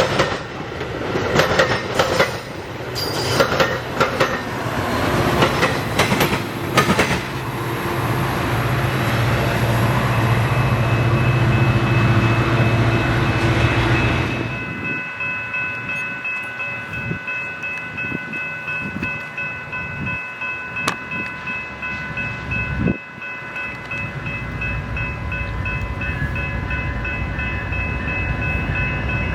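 A train passing close by, its wheels clacking over rail joints, with a strong low engine hum that drops away suddenly about halfway through. After that, several steady high tones ring on over softer, regular wheel clatter as the cars keep rolling.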